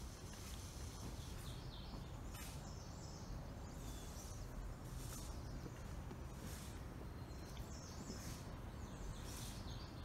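Songbirds chirping in short, repeated high phrases over a steady low rumble.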